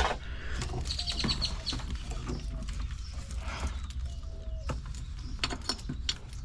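Wiring harness parts being handled: scattered clicks and light rattles of plastic connectors and wires, with a few short squeaks, over a steady low hum.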